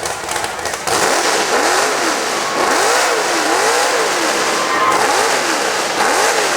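Mega mud truck engine revving hard, coming in loud about a second in. The revs rise and fall over and over, about once a second.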